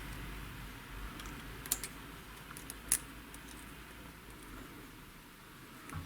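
A few light metallic clicks and taps from hand tools working on the cutter holder of a hand-operated valve-seat cutter, over a faint low hum.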